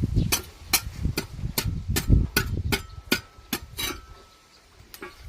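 A regular series of sharp clicks or knocks, about two and a half a second, over a low rumble; they stop about four seconds in.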